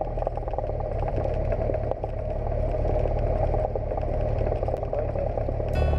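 Cessna 172 light aircraft's piston engine running steadily, a low drone with some rattling. Music comes in right at the end.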